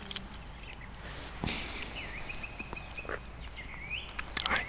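Bird calls: thin whistled notes, one held steadily for about a second, then short rising glides near the end.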